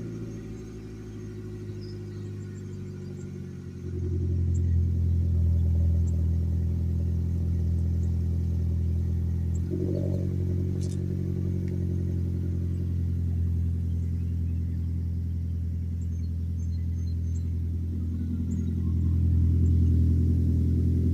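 Car engine under way, a steady low drone that gets louder as it pulls harder about four seconds in. Its pitch jumps up briefly and settles around ten seconds in, and it grows louder again near the end.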